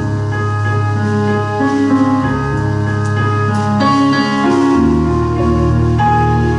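Organ playing slow held chords over a sustained bass, with the chord changing every second or two.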